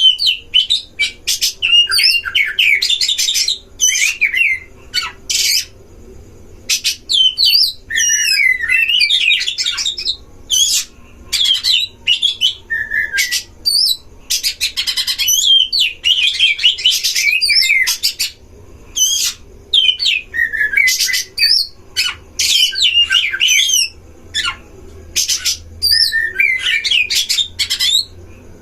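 Oriental magpie-robin (kacer) song: loud, varied whistled phrases mixed with harsh notes, broken by short pauses every second or two.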